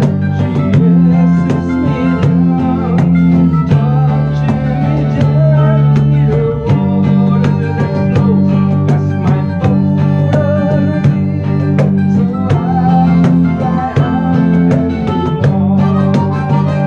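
Live instrumental music: plucked strings picking quick notes over sustained low chords that change every couple of seconds.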